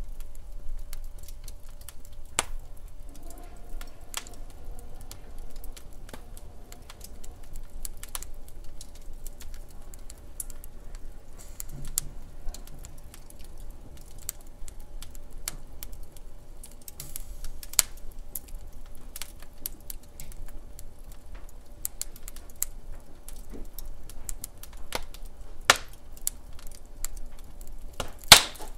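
Wood fire crackling: irregular sharp pops and snaps over a low steady rumble of the burning log, with a few louder pops, the loudest near the end.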